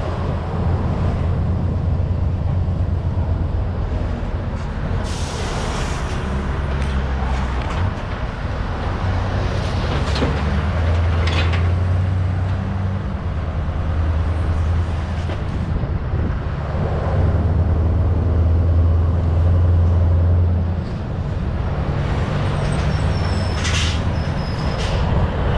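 Heavy diesel engine running with a deep hum that swells and eases several times. A short hiss of air comes about five seconds in, and there are scattered clanks.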